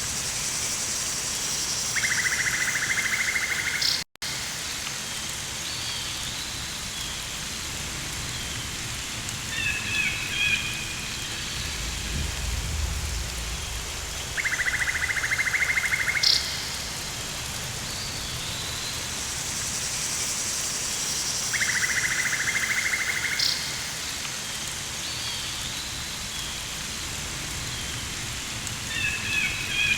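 Rainforest ambience: a steady hiss of rain with a pulsed insect trill that comes in three times for about two seconds each, clusters of short bird chirps, and a low rumble about twelve seconds in. The sound cuts out for an instant about four seconds in.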